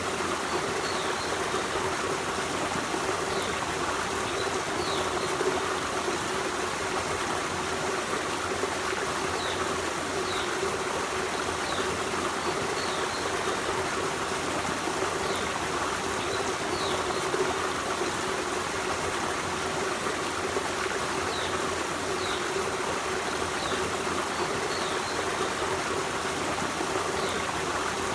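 Forest stream running steadily, with short high chirps every second or two from a small bird.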